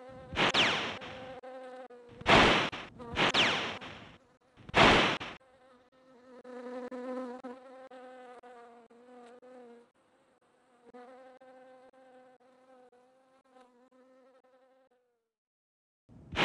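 A flying insect buzzing: a steady hum with four loud swells in the first five seconds as it passes close. The buzz thins out, stops near the end, then returns loudly just before the end.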